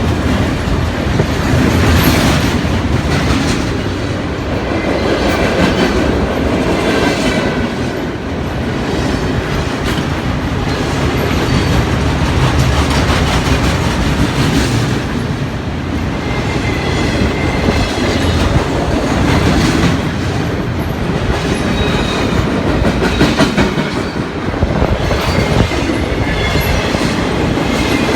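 Military freight train rolling past, its cars' steel wheels clattering over rail joints in a steady clickety-clack, with faint high wheel squeals coming and going.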